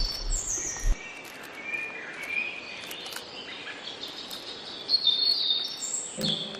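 Songbirds chirping and whistling in woodland, many short high calls overlapping, some sliding in pitch. A low rumble fills the first second, and music comes in just before the end.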